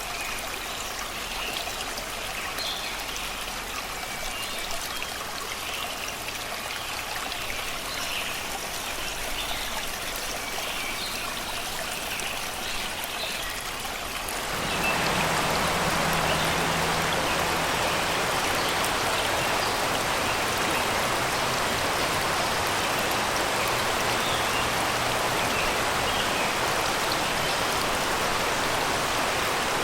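Shallow river running over and around rocks, a steady babbling rush, with birds chirping faintly over it. About halfway through, the water suddenly becomes louder and fuller.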